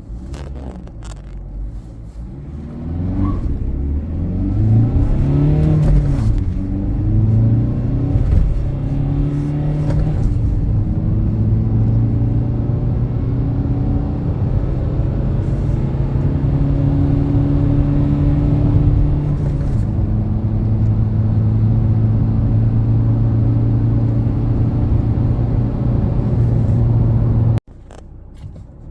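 Fiat Doblò 1.6 Multijet four-cylinder turbodiesel accelerating hard, its note climbing and dropping back at gear changes, then running steadily at speed. Cuts off abruptly near the end.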